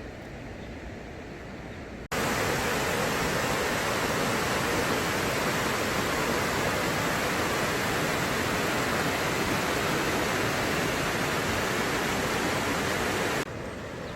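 Rushing mountain stream, a steady, loud wash of water noise that cuts in abruptly about two seconds in and cuts out abruptly near the end, with a quieter water-and-wind hiss either side.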